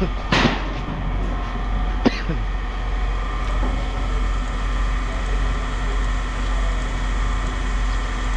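Steady machinery hum with a short rattle just after the start and a single sharp knock about two seconds in.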